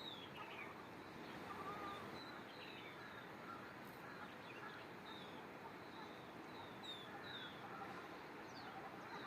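Several birds chirping: many short, quick chirps that drop in pitch, overlapping and scattered throughout, over a steady background hiss.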